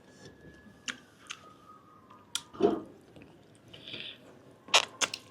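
Close-up mouth sounds of someone eating grilled giant octopus tentacles: wet chewing, lip smacks and irregular sharp clicks, loudest a little over halfway through and again near the end.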